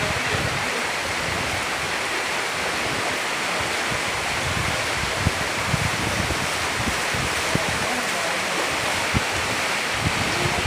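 Steady heavy rain falling, an even hiss with scattered soft low thuds.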